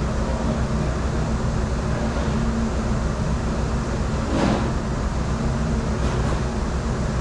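Steady drone of commercial dish-room machinery, a strong low hum, with a brief louder noise lasting about half a second roughly four and a half seconds in.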